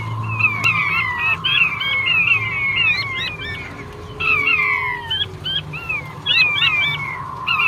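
Male king quail (puyuh batu) calling: a rapid series of short whistled notes, each sliding down in pitch and often overlapping, over a steady high tone.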